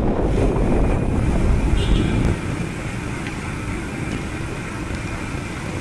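Wind buffeting a chest-mounted action camera's microphone, over the rumble of a mountain bike rolling on the trail. It is louder for the first two seconds or so, then eases a little.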